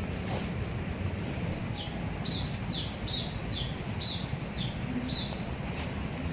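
A bird calls in a repeated two-note phrase, a high note that drops sharply followed by a shorter, lower note, four times about a second apart, over a steady low rumble of background noise.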